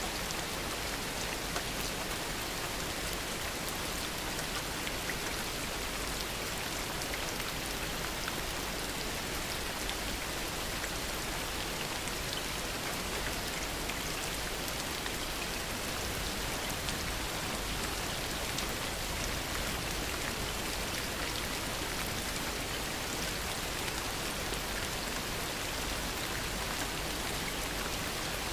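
Heavy rain falling steadily: an even hiss with scattered individual drops ticking.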